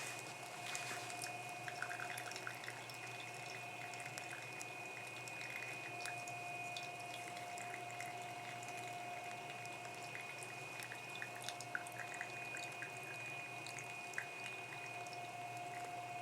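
Faint hot-water sounds while coffee is made: small drips and bubbles that come as scattered light ticks over a steady faint hiss, with two thin steady tones.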